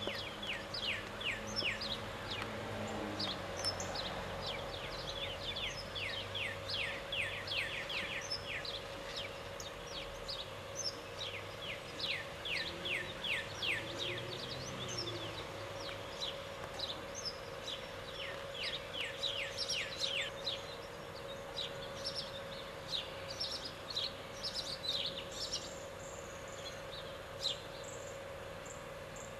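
Birds chirping: quick runs of short, falling chirps that come in repeated bouts, with a few higher single notes near the end and a faint steady hum beneath.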